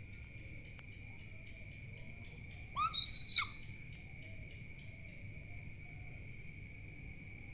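An owl gives one short, shrill call about three seconds in that rises and then falls in pitch. Under it runs a steady, high-pitched drone of insects.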